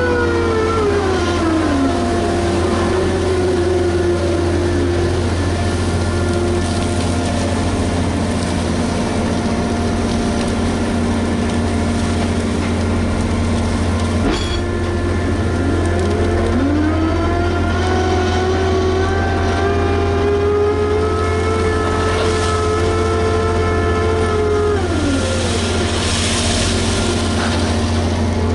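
Liebherr HS 8200 dragline's diesel drive running steadily under load. A whining tone over it falls in the opening seconds, climbs again just past halfway, holds, and drops off a few seconds before the end as the machine works through its dig cycle.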